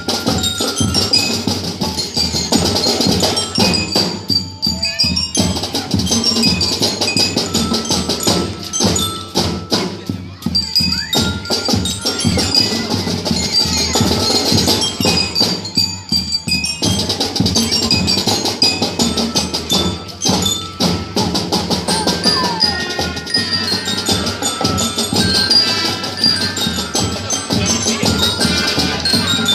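Marching band playing, with drums and the ringing notes of mallet percussion such as bells and marimba over the ensemble.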